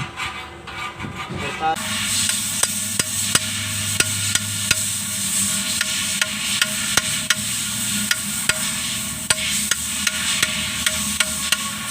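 Hand tools working on a tractor clutch: sharp, irregular taps and clicks, roughly one or two a second, over a steady hiss.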